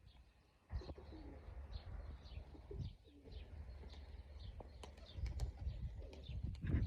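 Gusty wind rumbling on the microphone, with birds chirping in quick repeated notes and pigeons cooing.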